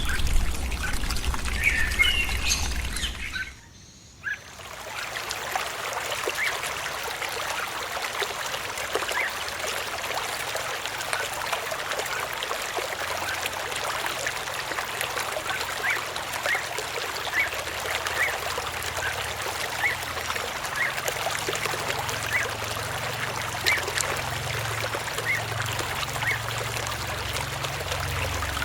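Small birds chirping for the first few seconds. After a brief drop-out, water trickling and splashing steadily, with many small drips and faint scattered chirps.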